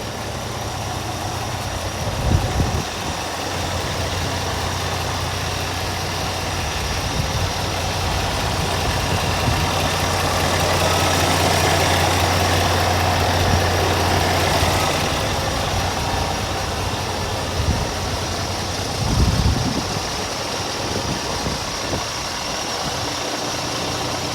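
Scania R440 truck's six-cylinder diesel engine running steadily at idle, swelling a little louder in the middle stretch, with two brief low thumps, one early and one near the end.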